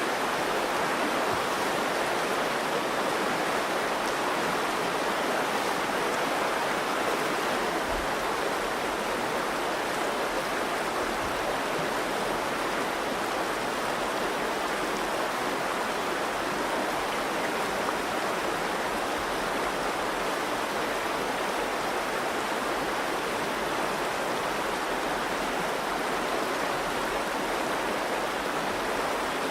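The Virgin River flowing steadily, an even, unbroken water sound.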